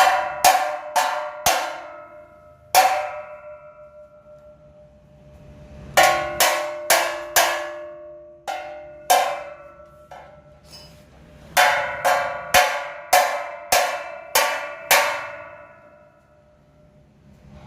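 Hammer blows on a steel part, each strike leaving a short metallic ring. The blows come in three runs, about two a second, with pauses of a few seconds between runs.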